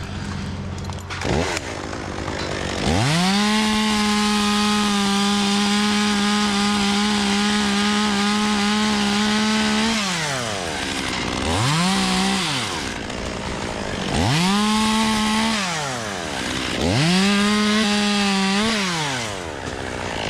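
Two-stroke chainsaw throttled up to a steady high pitch for about seven seconds of cutting, then three shorter bursts at full throttle, dropping back toward idle between each.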